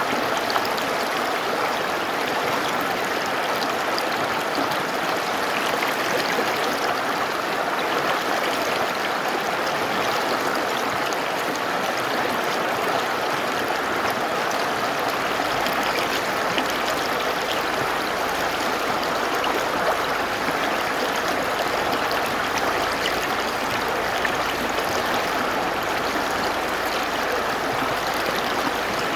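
Mountain river rushing steadily over rocks, a constant full water noise with no pauses. A faint low rumble joins about halfway through.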